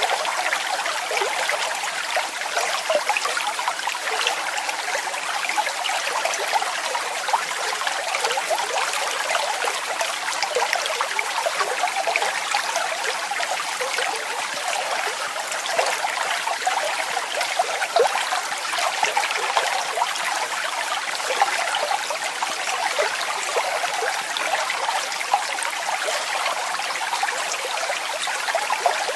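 Small waterfall splashing steadily: a continuous bright rush of falling water with fine splashes, and little deep rumble.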